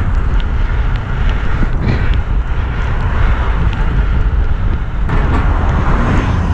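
Steady, heavy wind rumble on the microphone with road noise, from a bike moving fast on a wet road.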